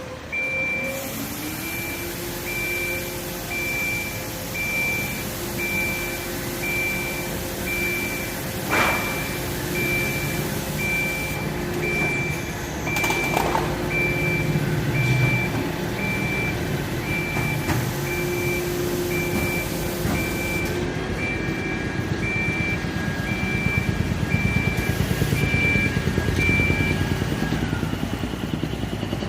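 Fire truck's warning beeper sounding a long, even run of high beeps over its running engine, with a steady hum underneath that stops about twenty seconds in; the beeps stop near the end.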